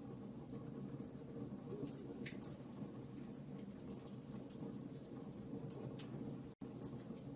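Wood fire burning in a fireplace: a steady low rumble of flame with frequent small crackles and pops. The sound cuts out for a split second about six and a half seconds in.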